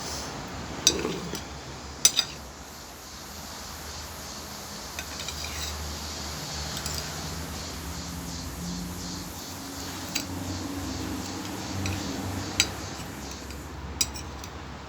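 Cutlery clinking against a plate a handful of times: short sharp clicks, scattered over several seconds.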